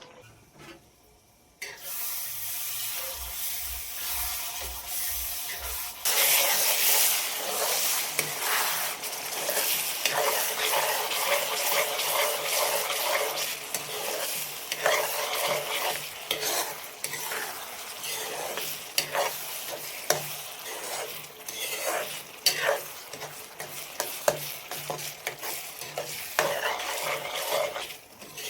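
Food sizzling in hot oil in a pan while it is stirred, with frequent short scraping clicks of the spoon against the pan. The sizzle begins faintly and becomes much louder about six seconds in.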